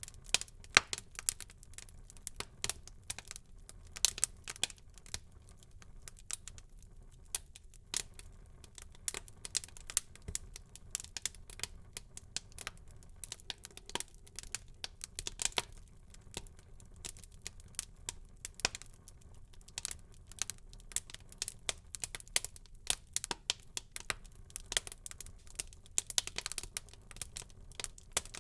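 Wood fire burning in a fireplace, crackling with many irregular sharp pops and snaps over a faint low rumble of the flames.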